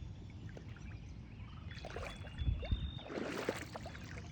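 Water sloshing and splashing, with a louder splash about three seconds in.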